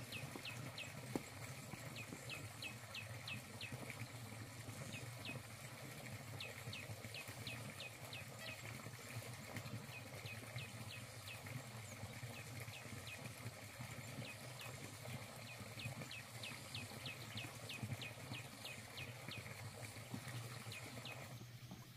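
A bird calling over and over: short rising chirps, several a second, in long runs, over a steady low hum.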